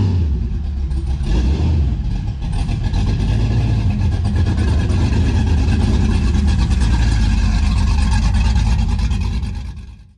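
Car engine running loud and revving, with a heavy low rumble, fading out near the end.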